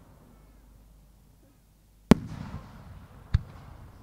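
Aerial fireworks shells going off. A loud boom comes about halfway through and rumbles away as it echoes, then a sharper crack follows just over a second later.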